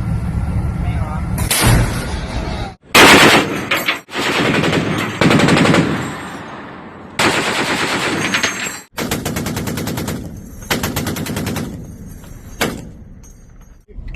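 Bursts of rapid automatic gunfire, several separate short stretches cut together one after another.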